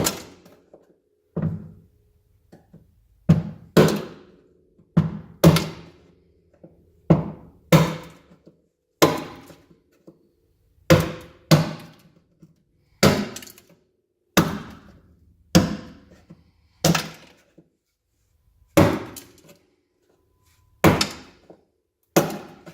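A mallet striking a flat-bladed screwdriver, about twenty sharp knocks at an uneven pace and often in pairs, chiselling off hard sound-deadening insulation made brittle with freezer spray.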